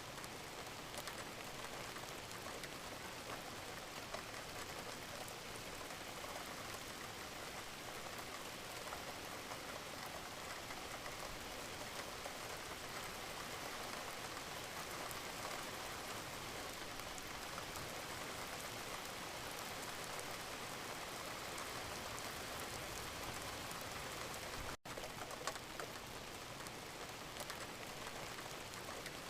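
Steady gentle rain: a dense, even patter of raindrops, broken once by a split-second gap about 25 seconds in.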